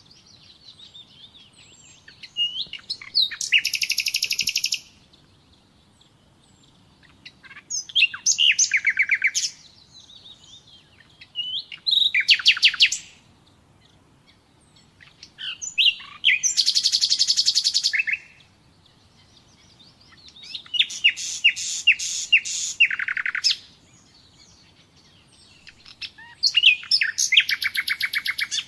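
Nightingale singing: six loud phrases a few seconds apart, each a fast run of rapidly repeated notes, with faint short chirps in the pauses between them.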